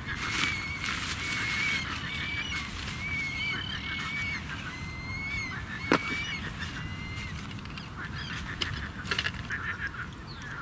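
Birds calling in a run of short, high, repeated notes, with scattered light clicks and one sharp knock about six seconds in.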